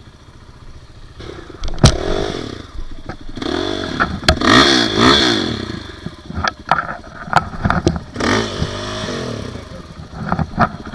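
Dirt bike engine revving up and down in repeated bursts after a quiet first second, with several sharp knocks and clatter from the bike on rough trail.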